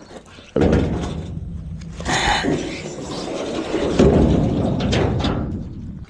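A crushed pickup truck bed full of dirt being heaved and dragged: a heavy rumbling scrape with clunks, starting suddenly about half a second in.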